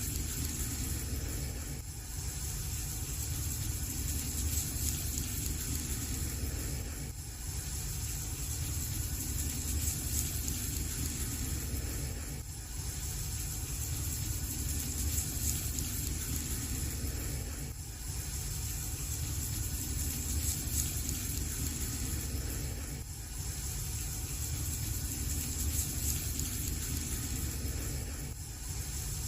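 Fire burning in a fireplace: a steady low rush of flames, with a short dip about every five seconds as the recording loops.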